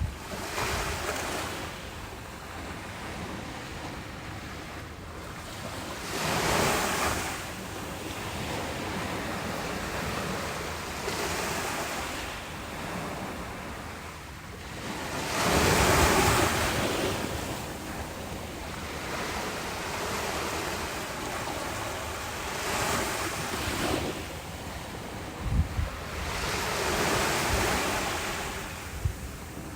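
Ocean waves breaking on a beach, the surf swelling and washing back in repeated surges every few seconds, the biggest about a quarter and halfway through. Wind buffets the microphone, with a few brief low thumps near the end.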